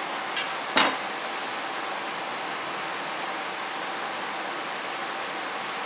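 A putty knife scraping briefly over wood putty in a table repair, twice in the first second, then a steady hiss.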